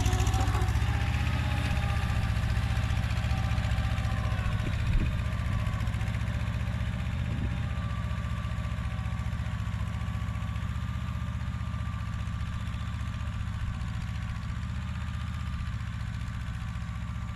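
Kubota mini tractor's diesel engine running steadily, with a thin steady whine above the engine note and a single knock about five seconds in; the sound slowly gets quieter.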